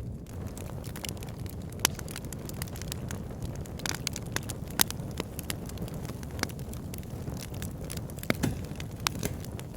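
Wood fire in a log burner: logs crackling and popping over a steady low rumble of the flames, with irregular sharp pops, a few of them louder.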